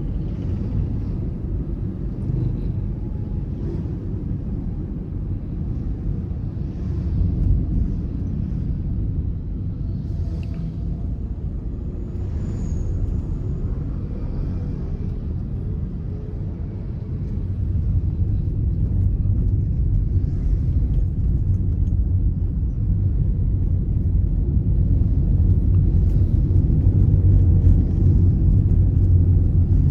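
Car being driven, a steady low rumble of engine and road noise that grows louder about two-thirds of the way through.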